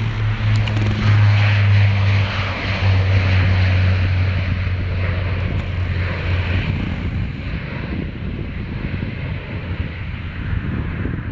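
Military aircraft flying past, its engines making a steady low hum over a rushing noise; the hum fades out about seven seconds in, leaving a rumble.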